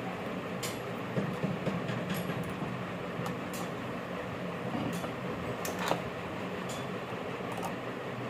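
A steady mechanical hum, with a few light clicks and taps scattered through it.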